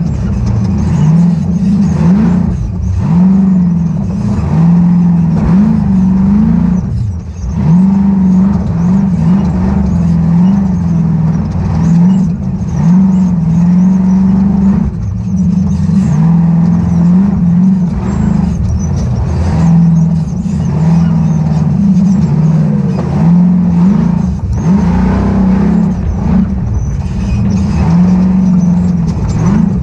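Ultra4 off-road race car's engine running hard under race throttle, revving up and dropping back again every second or two as the throttle is opened and lifted.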